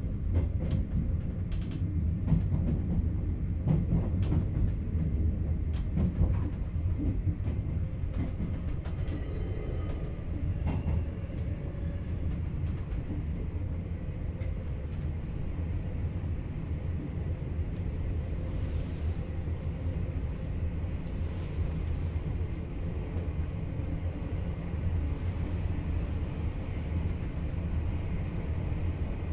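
VIRM double-deck electric train heard from its driver's cab, running along the track with a steady low rumble. Scattered clicks from the wheels on the track come thickest in the first several seconds. A few brief hisses come in the second half.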